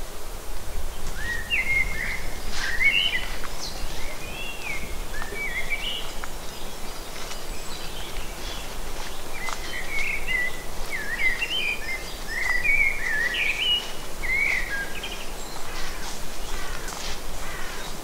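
A songbird singing warbling, pitch-bending phrases in two bouts, over a steady low rumble of woodland background noise.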